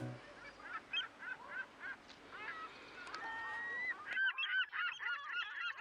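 A flock of birds honking, goose-like: single calls repeat at first, then about four seconds in a denser chorus of many overlapping calls sets in.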